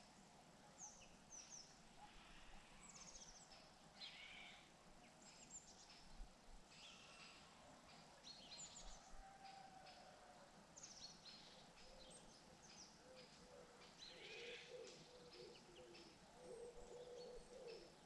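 Faint birdsong: many short, high chirps and calls over a low background hiss.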